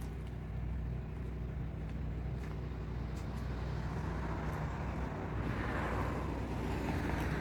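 Motor vehicle engine running steadily at low revs, with a rushing noise that swells in the second half.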